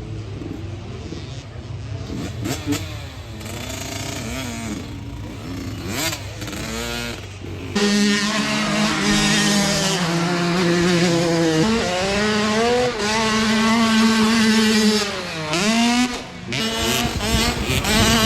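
Small two-stroke motocross bike engines racing, revving up and down as they change pitch. From about halfway through, one bike is much louder and closer, with its revs dropping and climbing again a couple of times.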